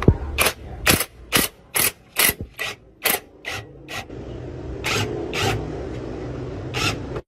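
A hand tool working on metal: short rasping strokes, about two a second, then a pause and a few more strokes.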